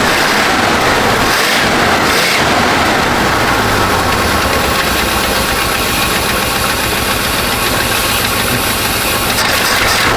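1970 Chevrolet C-40 truck engine running steadily at idle, freshly revived after sitting for over fifteen years.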